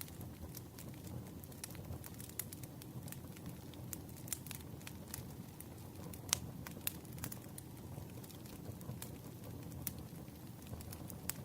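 Campfire burning: a steady low rumble of flames with irregular sharp crackles and pops, the loudest about six seconds in.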